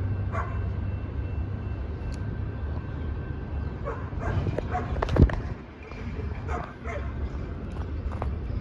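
A dog barking several times over a steady low rumble, with one sharp knock about five seconds in.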